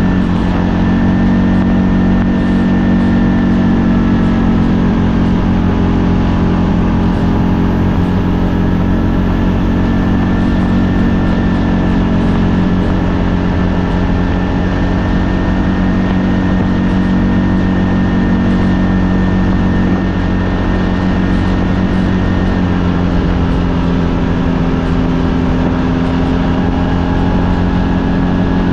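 ATV engine running steadily while under way, its pitch shifting slightly about three-quarters of the way through.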